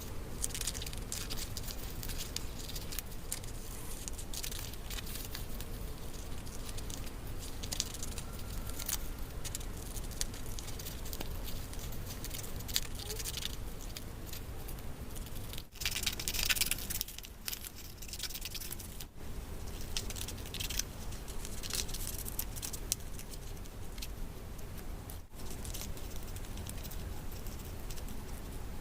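Paper handled close to the microphone: continuous rustling and crinkling with small taps and clicks, growing louder and denser for a moment about sixteen seconds in.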